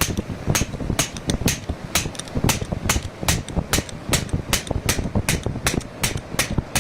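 Hammer blows on metal, about three to four a second, driving a pinion bearing into place.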